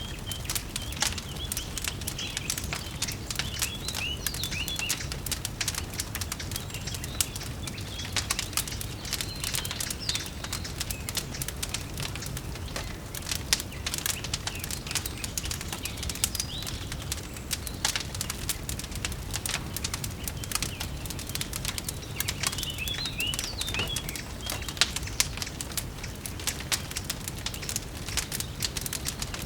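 Fireplace crackling with dense, irregular sharp pops over a low steady rumble, with birds chirping faintly now and then.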